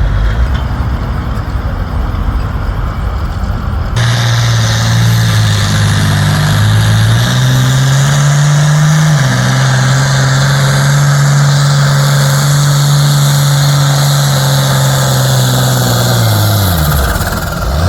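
Low engine rumble, then about four seconds in a loud engine at full throttle pulling a sled. It holds a steady pitch, steps up a few seconds later, and falls away sharply near the end as it is throttled back.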